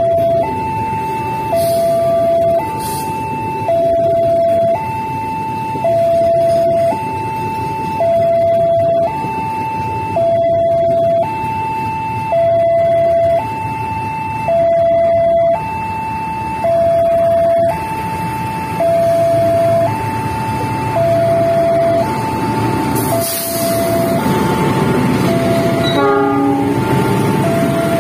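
Railway level-crossing warning alarm sounding a two-tone signal, a higher and a lower tone alternating about once a second, over a steady rumble of idling vehicles. A louder train rumble builds over the last few seconds.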